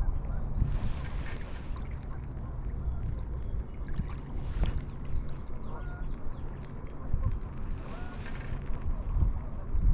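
Wind buffeting the microphone: a heavy low rumble throughout. Two brief hissing swishes come about a second in and again near the end, and a quick run of high ticks comes in the middle.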